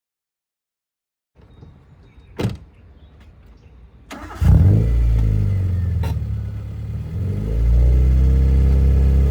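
Suzuki Baleno 1.6's engine through its modified stage-1 aftermarket exhaust, coming in loud about four seconds in after a quiet stretch with a single click, its pitch rising and falling with the revs and getting louder near the end.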